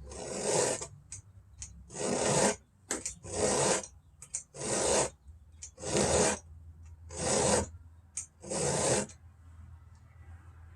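Chainsaw chain being sharpened by hand with a file: seven steady rasping strokes, about one every second and a half, as the cutter teeth are filed.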